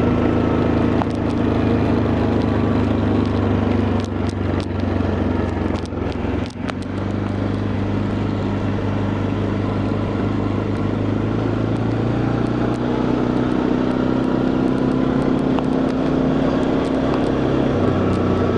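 Quad bike engine running under way, a steady drone that drops briefly about six seconds in and then picks up again, its pitch rising in the second half as it speeds up.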